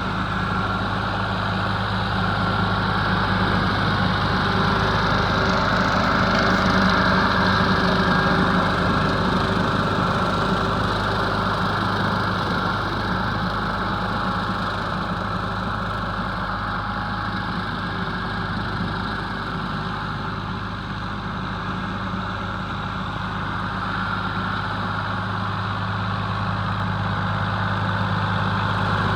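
Ford 4000 three-cylinder diesel tractor engine running steadily while brush hogging with a seven-foot rotary cutter. It grows a little louder a few seconds in and eases off slightly about two-thirds of the way through.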